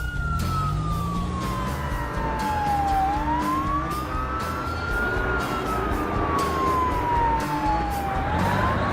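Wailing emergency-vehicle siren, one tone sliding slowly up and down about every five seconds, over background music.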